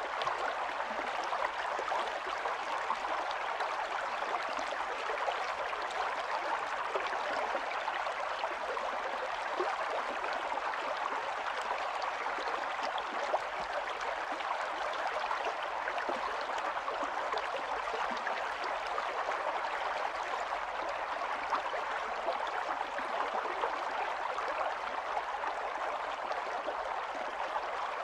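Small stream running over stones: steady babbling and gurgling of water.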